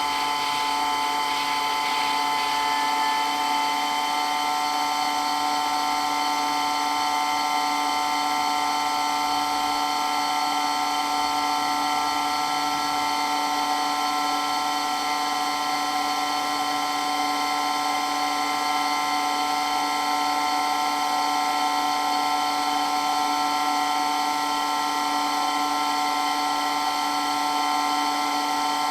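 Water pump running steadily: an unbroken, high mechanical whine made of several steady tones that never changes in pitch or level.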